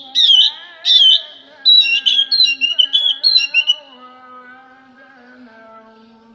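A songbird singing loud, quick, whistled phrases that come in bursts through the first four seconds, then stops. Background music plays underneath throughout.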